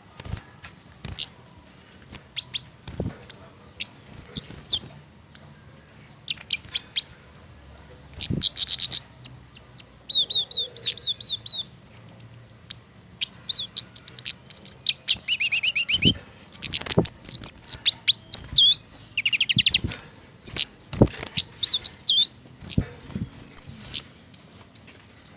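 Kemade (cici geni) songbird chirping energetically in rapid, high, sharp notes, with several fast trills. A few sharp knocks sound in between.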